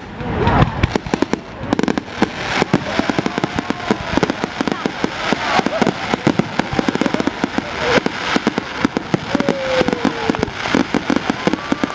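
Aerial fireworks crackling and popping in a rapid, dense run of sharp bangs, many a second.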